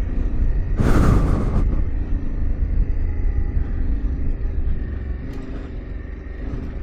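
Yamaha Ténéré 700's parallel-twin engine running under load as the bike works through sandy ruts and washouts, with a steady rumble and a loud rush of noise about a second in.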